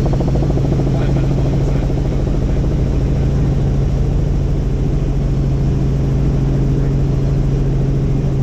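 Helicopter in flight: a steady engine and rotor drone with a fast, even blade pulse.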